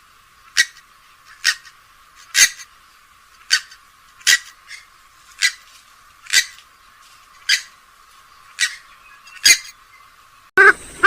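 Rail-family waterbird calls from a swamphen and moorhen recording: a short, sharp call repeated about once a second, ten times over.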